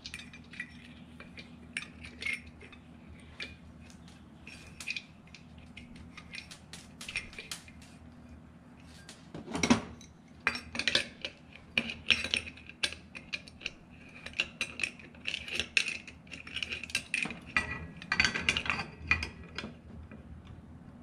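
Small metal ceiling-fan parts clinking, clicking and knocking as the fan is bolted back together by hand. The handling is sparse at first and much busier after about nine seconds, with the loudest knock near ten seconds.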